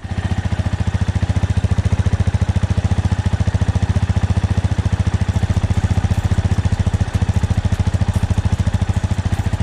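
An engine running steadily with a fast, even chugging beat. It starts suddenly.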